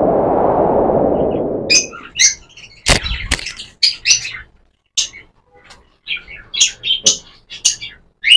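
A rushing swoosh fades out over the first two seconds, then cockatiels chirp in many short, high calls, with one sharp knock about three seconds in.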